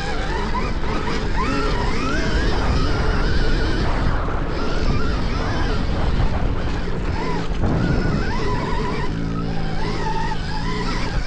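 Stark Varg electric dirt bike's motor whining, the pitch rising and falling over and over with the throttle, over heavy wind rumble on the microphone. A steadier low hum joins near the end.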